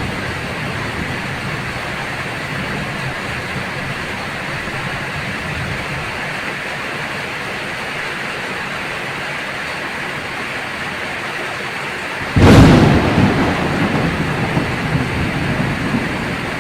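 Steady heavy rain hissing. About twelve seconds in, a sudden loud thunderclap cracks, then rumbles on.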